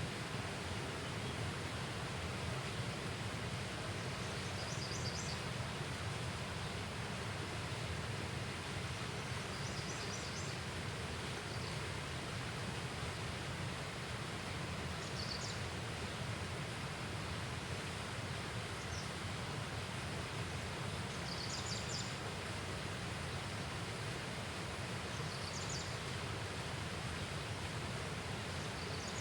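Outdoor riverside ambience: a steady rushing noise, strongest in the low range, with brief high-pitched chirps from a small animal every four to five seconds.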